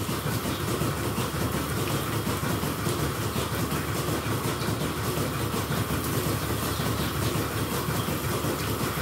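Dairy milking shed machinery running steadily: a constant low rumble under an even rushing hiss.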